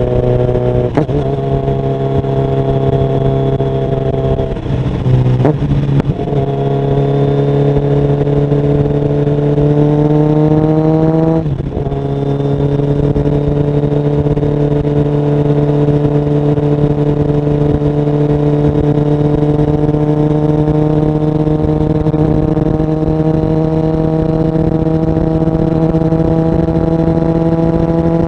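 Kawasaki Ninja 1000SX's inline-four engine through stainless Black Widow headers and a LeoVince end muffler, pulling through the gears. The pitch climbs and drops sharply at gear changes about a second, five and a half and eleven and a half seconds in, then rises slowly and steadily.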